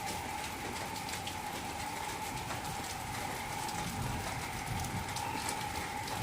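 Heavy rain falling steadily, with scattered drop ticks and a steady high hum running underneath.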